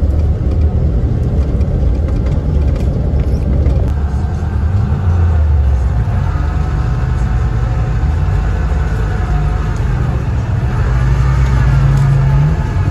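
Suzuki Samurai's engine running as it drives off-road, its note rising and falling with the throttle. Near the end it holds a higher, steadier drone, then drops back.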